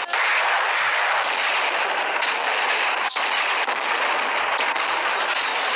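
Cartoon explosion sound effects: a continuous rushing blast noise at a steady level, with short breaks at the start and about three seconds in.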